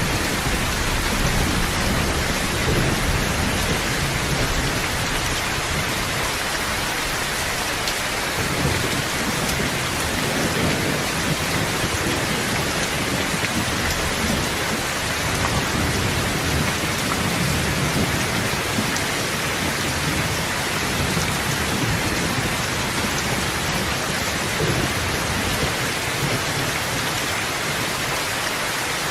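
Steady, heavy rain falling, with a low rumble that swells and fades underneath every few seconds.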